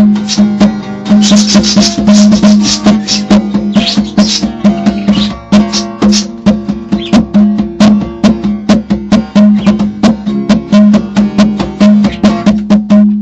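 Hand drumming with guitar: fast, busy strikes over a steady droning low note. It cuts off suddenly near the end.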